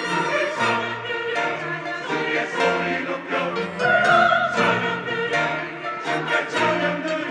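Church choir singing a special anthem with orchestral accompaniment; a high held note swells about four seconds in.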